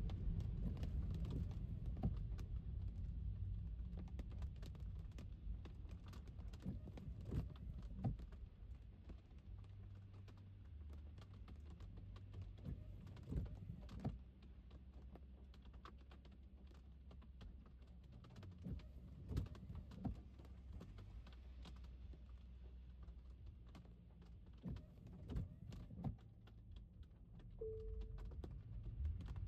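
Raindrops tapping irregularly on a car over a low road rumble. The rumble fades over the first several seconds and rises again near the end.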